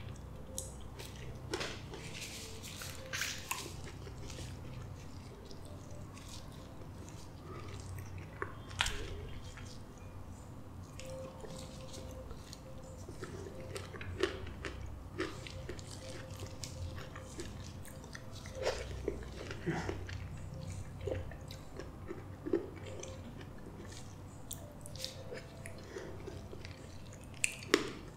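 Close-miked wet chewing and mouth sounds of someone eating soft, creamy custard apple flesh, with scattered small clicks and smacks.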